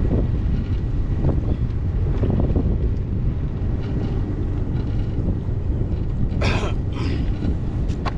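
Strong wind buffeting the microphone, with water sloshing around a kayak; two short splashes about six and a half and seven seconds in.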